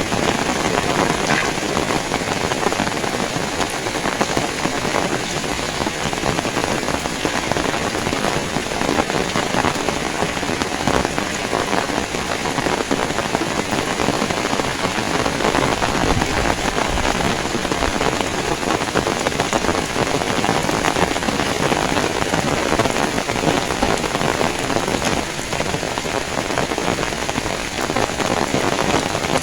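Heavy rain pouring down steadily and evenly.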